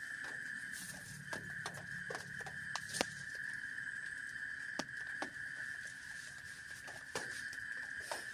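Scattered drops ticking and pattering irregularly on a tent, about a dozen sharp ticks, the loudest about three seconds in. Under them runs a steady high-pitched hum.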